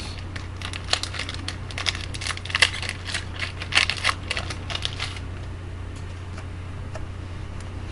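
Trading cards being handled by hand, flipped and shuffled against each other: a quick run of light clicks and card snaps for about five seconds, then they stop. A steady low hum sits underneath.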